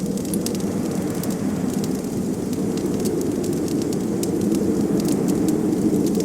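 Wood fire crackling with frequent small, sharp pops over a steady low rushing of blizzard wind.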